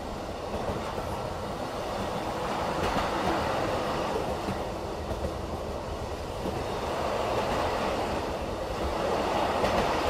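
Running noise of a BLS train heard inside the passenger coach: a steady rumble and hiss of wheels rolling on the rails, swelling and easing a little in loudness.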